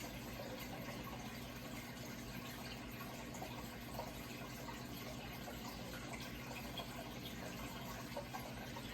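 Steady running, trickling water with small irregular splashes, over a low steady hum.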